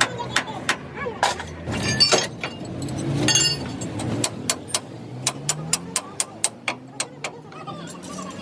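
A hammer striking steel in quick, sharp blows, a few scattered at first, then an even run of about four a second through the second half. A low, steady rumble runs underneath.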